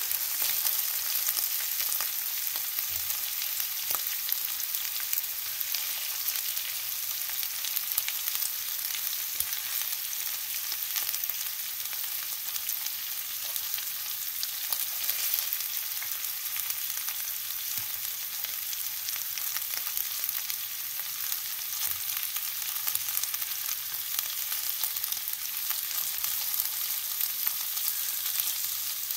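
Meatballs and chopped onion sizzling in hot oil in a nonstick frying pan: a steady high hiss, with occasional light clicks as a wooden chopstick pushes them around.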